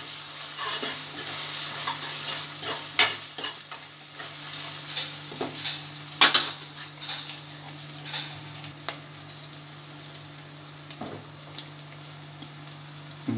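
Onions, ginger paste and fresh mint sizzling in hot oil in a metal pot while a steel spoon stirs and scrapes against the pot, with a few sharp clacks of the spoon on the metal. The sizzle is loudest in the first few seconds and then settles lower.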